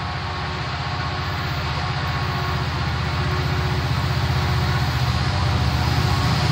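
Norfolk Southern freight train approaching behind a diesel locomotive, the engine's low pulsing sound growing steadily louder.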